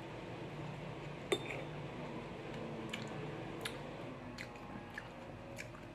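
Close-up wet chewing of juicy orange segments: soft squishy mouth sounds with a scattering of small clicks and smacks, the loudest about a second and a half in.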